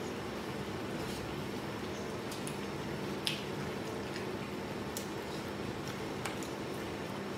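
A man chewing a mouthful of rice and bullfrog, with a few sharp clicks of chopsticks against a rice bowl, the loudest about three seconds in, over a steady low hum.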